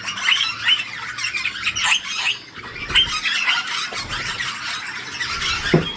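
Many parakeets calling at once: a continuous chatter of short chirps and squawks, with louder calls about three seconds in and near the end.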